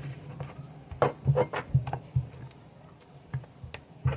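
Scattered light clicks and taps of small objects being handled and set down on a table, irregular and busiest in the first half, over a low steady hum.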